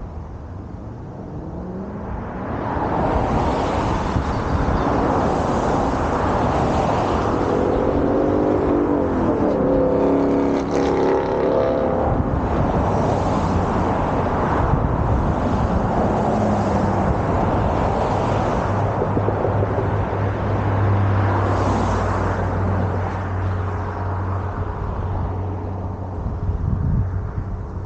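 Ford Mustang GT's 5.0 L V8 running through a Borla ATAK cat-back active exhaust, accelerating with a rising pitch and then settling into a steady low drone.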